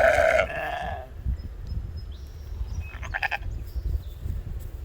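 Sheep bleating: one loud, wavering bleat at the start lasting about a second, then a shorter, fainter bleat about three seconds in.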